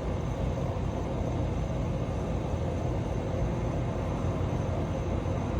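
Steady low rumble, even and unchanging throughout.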